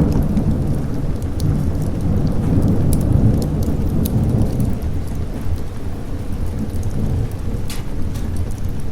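Rolling thunder over steady rain. The low rumble is loudest in the first few seconds and then fades, with a few sharp crackles scattered through.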